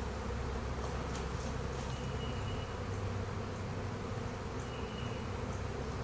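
A swarm of honey bees buzzing in the air, a dense, steady hum.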